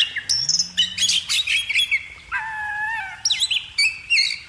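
Several small birds chirping and calling in quick, sweeping notes, with one steadier held note lasting under a second about halfway through.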